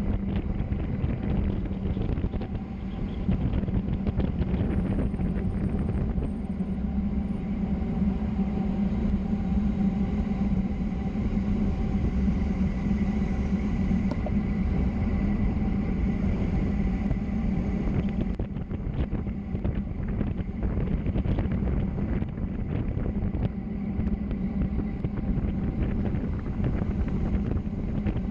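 Steady wind rushing over the microphone with road rumble during a fast downhill descent, with scattered small clicks and rattles.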